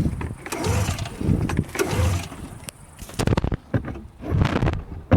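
Cold start of a 1997 Polaris Ultra 600 snowmobile's two-stroke engine with the choke partly on: the recoil starter rope is pulled several times, about once a second, and the engine turns over briefly with each pull without catching.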